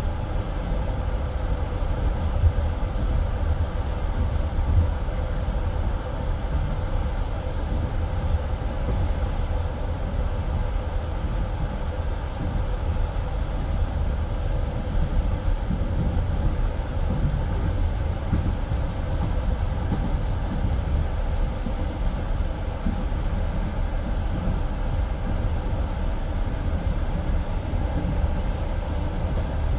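Passenger train in motion, heard from inside the carriage: a steady low rumble of wheels on rails, with a couple of louder wheel knocks in the first five seconds.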